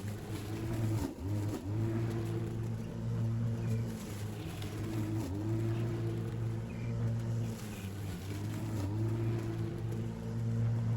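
Battery-powered lawn mower running as it cuts grass, a steady motor-and-blade hum whose pitch dips briefly several times as the blade bogs under load.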